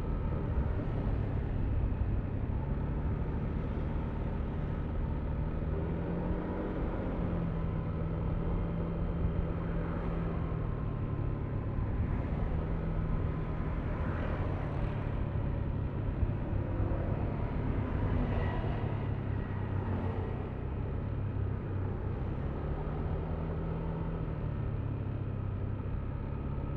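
Yamaha Aerox V3 scooter's 155 cc single-cylinder engine running while riding, its pitch rising and falling a few times with the throttle, over steady wind and road noise.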